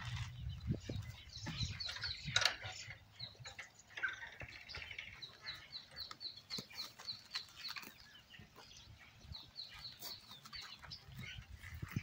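A small bird calling runs of short, high chirps, about four a second, repeated several times, with a few sharp clicks among them.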